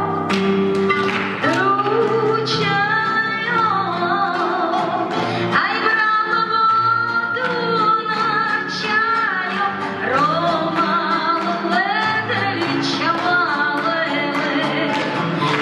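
A woman singing a Russian Roma song with strong vibrato over guitar accompaniment.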